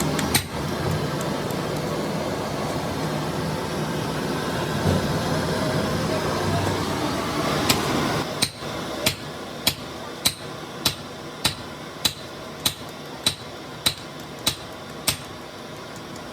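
A hammer striking metal in an even series of about a dozen ringing blows, a little under two a second, beginning about halfway through after a steady mechanical rumble.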